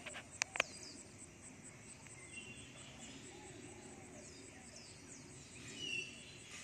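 Small birds chirping, many short high falling notes over a quiet background hum, with a louder call near the end. Two sharp clicks sound about half a second in.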